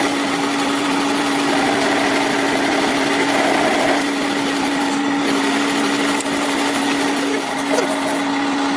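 Electric workshop machine running steadily with a constant hum over a hiss.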